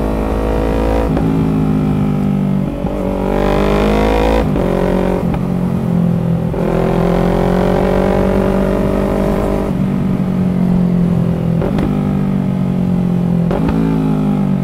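Yamaha MT-03's parallel-twin engine and exhaust under way. It rises in pitch under throttle and drops back sharply at each of several gear changes, then falls away as it slows near the end. The muffler is noisy.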